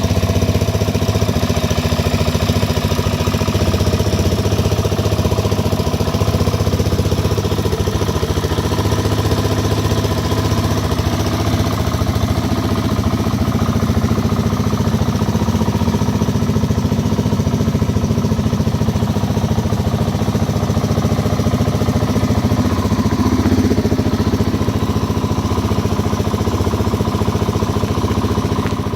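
Suzuki DR-Z400's single-cylinder four-stroke engine idling steadily, still warming up after a cold start.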